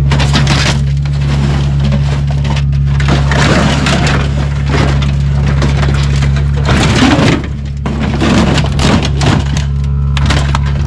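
Heavy engine-driven machinery running steadily while material cracks, splinters and crunches under it in repeated loud bursts.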